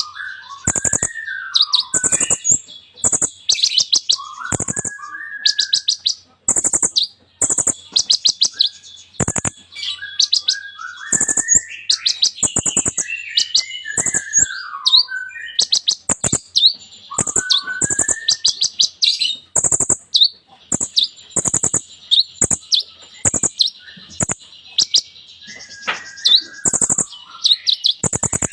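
A kolibri ninja sunbird singing hard and without pause. Its song is a busy run of rapid, high chips and trills, broken by lower slurred whistles that fall in pitch, and it is packed with phrases copied from other birds ("full isian").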